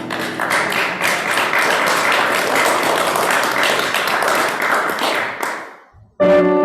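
A congregation applauding, a steady patter of many hands that fades out about six seconds in; a piano begins playing just after.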